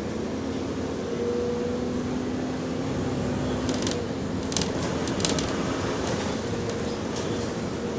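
Diesel bus engine running with an exhaust leak: a steady low hum with a few short sharp ticks about four to five and a half seconds in.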